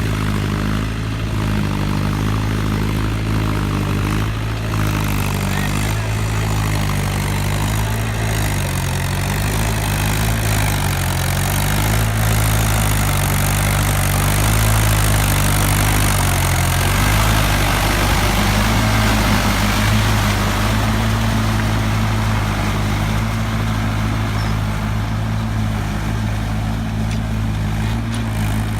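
Mahindra 575 DI tractor's four-cylinder diesel engine running steadily. Its note wavers about a third of the way in, then settles on a new steady pitch about two-thirds in.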